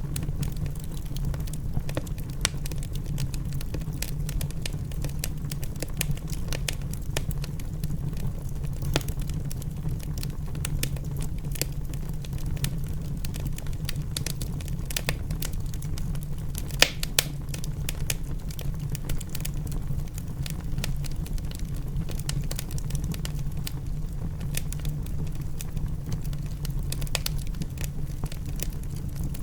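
Wood fire crackling in a fireplace: many irregular sharp pops and snaps over a steady low rumble, with two louder pops about seventeen seconds in.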